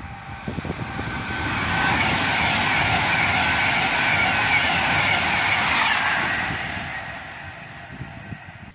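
Avanti West Coast express train passing through the station at speed: a rushing roar builds over about two seconds, holds for about four, then fades as the train recedes, with a faint steady high tone over it.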